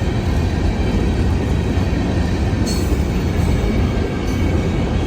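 Freight train rolling past close by, a steady loud rumble of wheels on rails, with one brief sharp high-pitched squeak a little past halfway.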